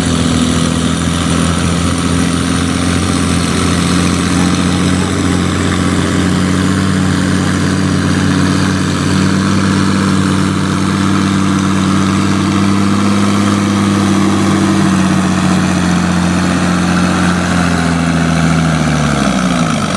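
Farm pulling tractor's engine running hard and steady under load, its pitch creeping up partway through, then dropping off sharply near the end as it is throttled down at the end of the pull.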